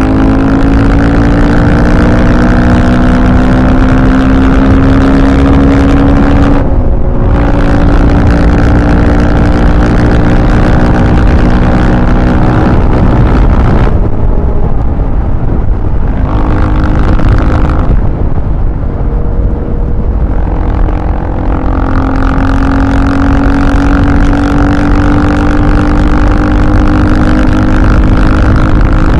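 Engine running hard at high revs with its pitch climbing slowly. It breaks off briefly about a quarter of the way in, drops back twice in the middle and then pulls high again for the rest of the time.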